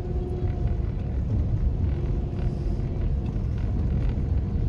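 Steady low rumble of a car driving: engine and tyre noise.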